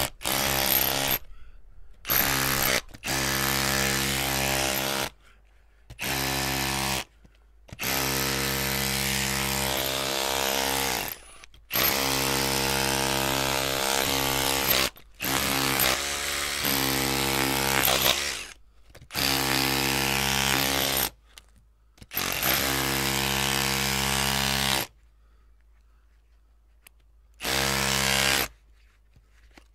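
Electric drill running in repeated bursts of one to four seconds, switched on and off with short pauses, its motor giving a steady hum under a high whir. A longer pause of a couple of seconds comes near the end.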